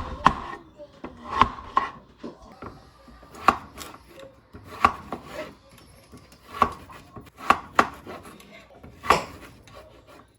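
Knife chopping vegetables on a cutting board, separate sharp strokes about once a second, unevenly spaced.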